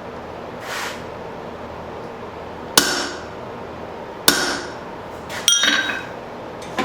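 Blacksmith's hammer blows on steel: four heavy strikes spaced about a second apart, each with a short metallic ring, over a steady hum. A brief hiss comes about a second in.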